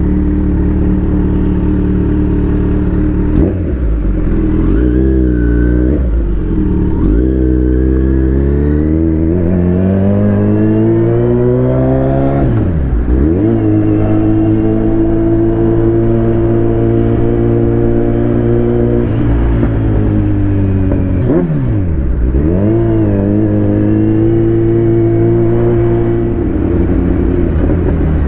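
Kawasaki Z900 inline-four motorcycle engine under way. Its pitch climbs steadily for several seconds, drops sharply and recovers at a gear change, then holds steady. It dips twice more later on, as the throttle is closed and reopened or the rider shifts.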